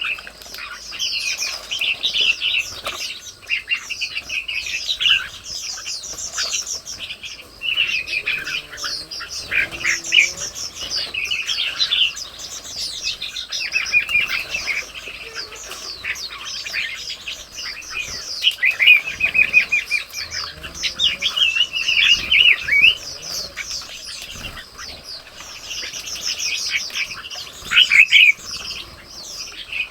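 Several birds chirping and calling together in a dense, continuous chorus of short overlapping chirps and trills, with a few louder call phrases standing out.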